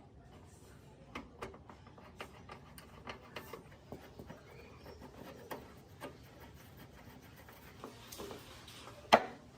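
Irregular light clicks and taps of small parts and hand tools being handled during a workshop repair, with a brief scraping hiss shortly before one sharp, loud knock near the end.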